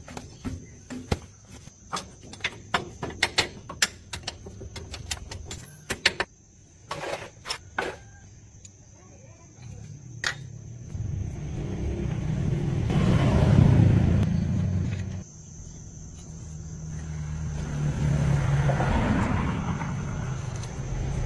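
A run of sharp clicks and metallic knocks, then a car engine running and swelling up in revs twice in the second half.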